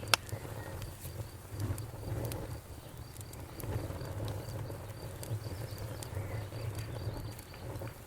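Campfire burning: a low, uneven rumble from the flames, one loud sharp pop right at the start, then scattered small crackles. A faint high chirp repeats at an even pace in the background.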